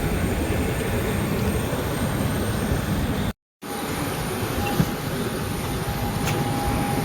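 Steady rumble of a moving vehicle heard from inside, with a short break about three seconds in where the footage is cut. After the break a faint steady hum sits over the rumble.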